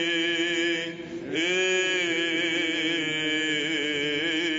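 Byzantine chant: a chanter's voice holds long, slowly wavering notes, with a short break about a second in, over a steady low drone.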